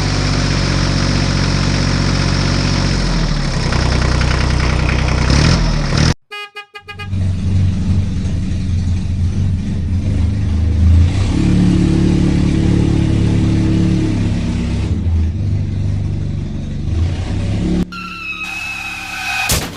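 Vehicle engine sound effects running and revving, the pitch stepping up and down. About six seconds in there is a brief gap filled by a quick run of beeps. Near the end a higher, horn-like held tone comes in.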